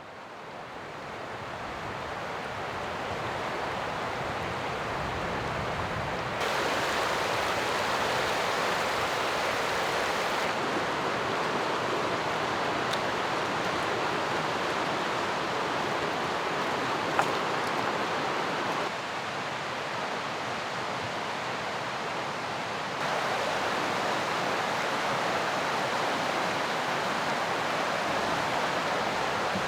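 Mountain river rushing: a steady wash of water noise that fades in at the start and steps abruptly louder or softer a few times, with one short click partway through.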